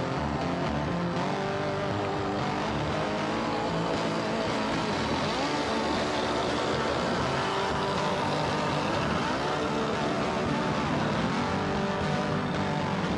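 Diesel train running past: a steady engine drone whose pitch shifts slowly up and down, over the rolling of wheels on the rails.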